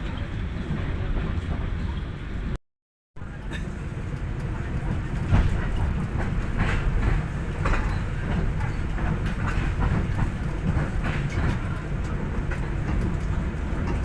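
Pangrango passenger train running on the rails: a steady low rumble with irregular clacks and knocks from the wheels over the track. The sound cuts out for about half a second near three seconds in.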